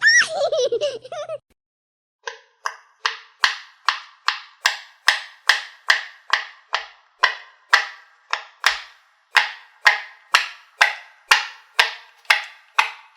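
A short wobbling, gliding cartoon sound effect, then a steady run of sharp clap-like hits, about two and a half a second, each ringing out briefly.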